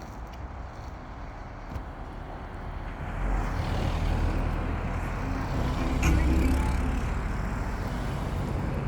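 A motor vehicle running on the road, its engine and tyre noise swelling from about three seconds in, loudest around six seconds, then easing a little.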